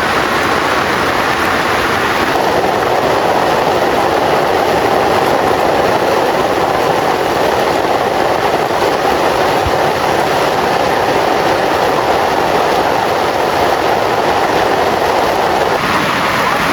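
Heavy rain falling hard and steadily, a loud, even downpour.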